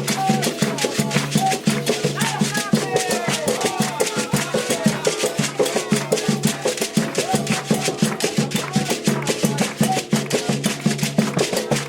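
Candomblé ceremonial music: atabaque hand drums and shaken percussion playing a fast, steady rhythm, with voices chanting over them.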